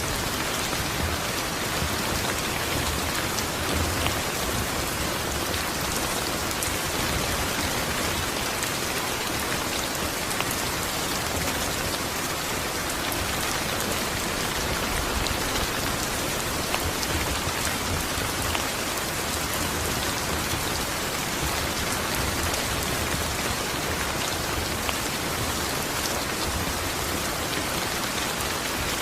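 Steady rain falling, an even hiss of drops with fine scattered pattering ticks.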